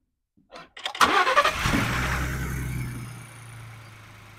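Ford Bronco turbocharged engine, heard under the hood, suddenly rises about a second in with a rush of air, then fades over about two seconds to a low steady hum. This is the stock setup with no blow-off adapter: the air rush is the Injen cold air intake drawing air in, not the turbo's diverter valve.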